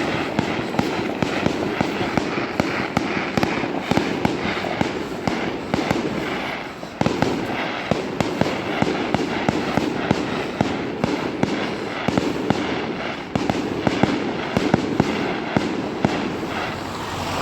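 Fireworks going off in a dense, continuous crackle of many sharp pops close together, easing briefly about six seconds in before picking up again.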